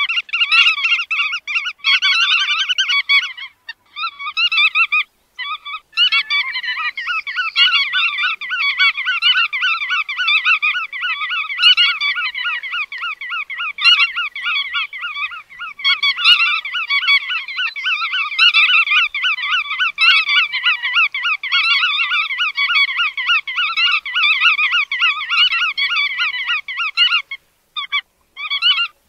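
Bar-tailed godwit calling: rapid, repeated calls in a long unbroken run, with a few short pauses early on and near the end.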